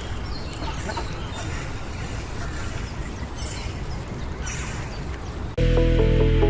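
Ducks quacking now and then over steady outdoor background noise. Near the end it cuts suddenly to music with steady sustained tones and a low hum.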